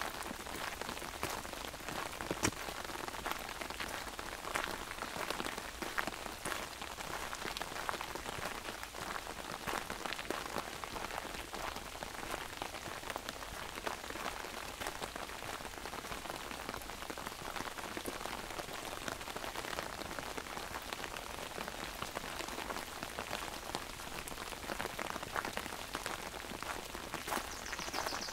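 Rain falling on an umbrella: a dense, steady stream of small drop hits with a few louder single drips. Near the end a brief high falling note sounds over it.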